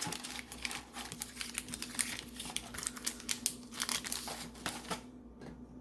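Butter wrapper crinkling and tearing as it is opened: a run of quick, irregular crackles that dies down about five seconds in.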